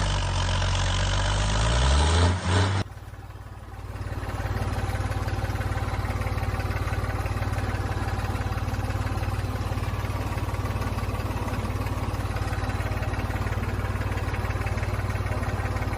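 An engine-like motor speeding up with rising pitch, cut off suddenly about three seconds in, then running steadily at an even idle-like pulse.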